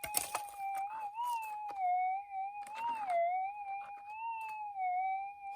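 A gold-prospecting metal detector's steady tone, wavering up and down in pitch as the coil is swept over a faint buried target. Short scrapes and knocks of digging in the soil sound over it, the strongest at the start and about three seconds in.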